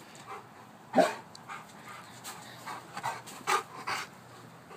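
A dog frightened by rain making a string of short sounds: one loud sound about a second in, then a run of shorter, fainter ones.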